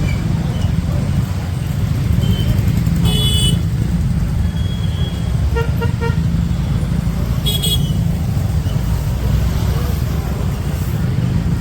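Steady low rumble of a motorbike riding through town traffic, with vehicle horns honking over it: a high toot about three seconds in, three quick short beeps around six seconds, and another high toot shortly before eight seconds.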